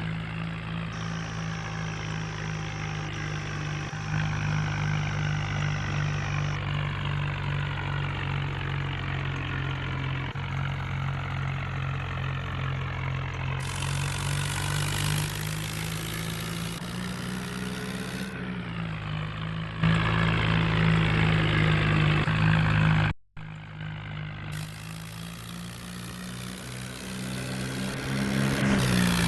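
Tractor diesel engine running at low revs, its pitch rising and falling a few times. It gets louder about two-thirds of the way through, breaks off abruptly for a moment, then carries on.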